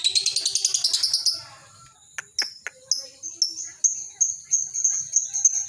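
Lovebird singing its long 'ngekek' chatter: a rapid, shrill trill that breaks off about a second in, then a couple of sharp clicks, then a quick, even series of high chirps, about four a second, that builds in loudness.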